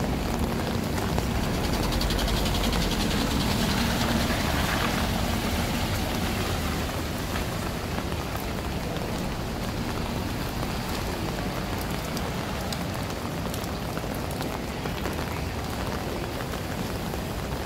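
Steady rain falling on a wet street. A car's tyres hiss through the water on the road, swelling in the first few seconds.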